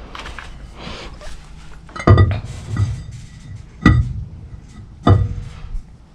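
Three sharp metallic clanks with a brief ring, each a second or two apart: steel tools and parts knocking against each other during engine flywheel work.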